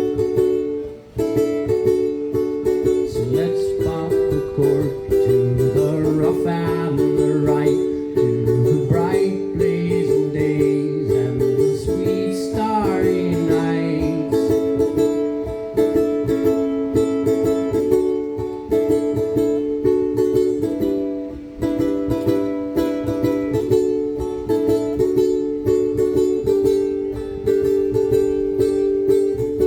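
Live acoustic music: an instrumental break of steadily strummed chords on a plucked string instrument. A wordless melody line runs over the chords from about three seconds in until about fourteen seconds in.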